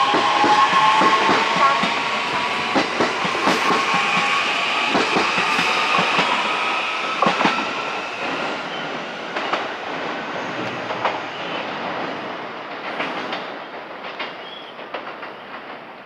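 JR East E131 series electric train pulling away, its hybrid SiC IGBT VVVF inverter whine rising in pitch over the first several seconds, wheels clicking over rail joints. The sound fades steadily as the train leaves.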